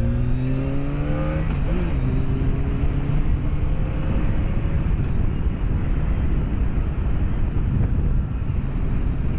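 BMW K1200S inline-four engine accelerating hard, its pitch rising, with a gear change about two seconds in, after which the pitch climbs again. From about five seconds in the engine tone sinks into a steady rush of wind and road noise, picked up by a microphone inside the rider's helmet.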